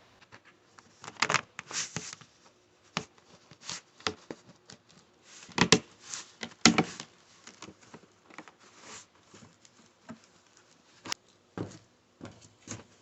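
Scattered, irregular taps, clicks and short rustles from laying plastic sheeting and floor materials by hand, with a few louder knocks about six seconds in.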